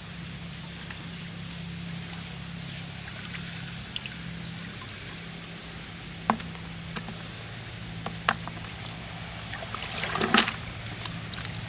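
Water trickling and splashing over a low steady hum, with a few sharp clicks and a louder splash about ten seconds in.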